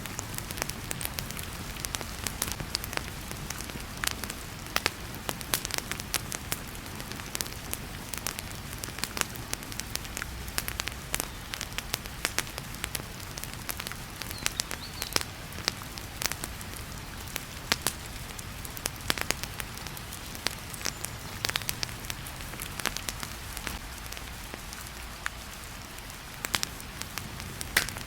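Wood fire crackling, with frequent irregular sharp pops and snaps, over the steady hiss of heavy rain and a low rumble.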